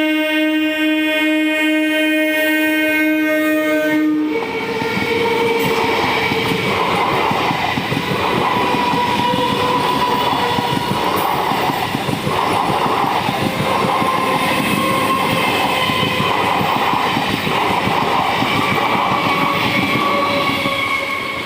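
Train horn sounding one long steady blast for about four seconds, then a passing train at speed: a loud, continuous rush and rattle of wheels on rail that carries on for many seconds, with faint ringing tones over it.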